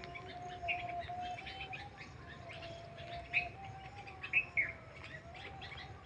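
Wild birds chirping and calling, short high chirps scattered through, the loudest about three and four and a half seconds in, over a faint steady drone that wavers slightly in pitch.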